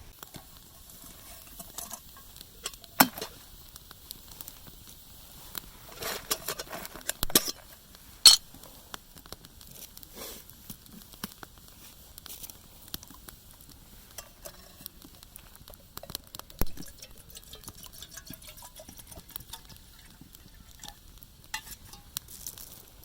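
Irregular light clicks and clinks of cutlery against a pan while eating ajillo, with a few sharper knocks about 3, 8 and 16 seconds in.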